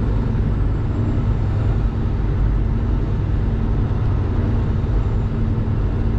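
Semi truck's diesel engine running with a steady low drone, heard inside the cab.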